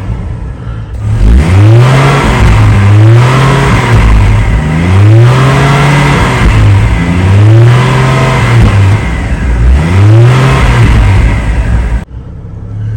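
GMC Envoy's Vortec 4200 inline-six engine being revved in quick blips, about five rises and falls in pitch roughly two seconds apart, before settling back near the end.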